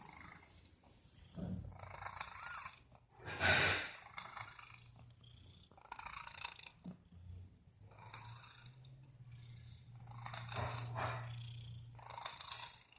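Domestic cat purring with a low hum, broken every second or two by louder bursts of noise, the loudest about three and a half seconds in.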